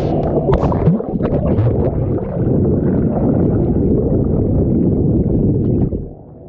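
Yamaha VX jet ski running at speed, its engine and water rush rumbling under wind buffeting on the microphone. The noise drops sharply near the end as the ski slows.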